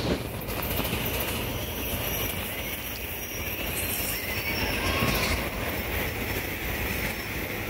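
SEPTA Regional Rail electric commuter train passing close by, a steady rumble of wheels on the rails with thin, high wheel squeal running over it.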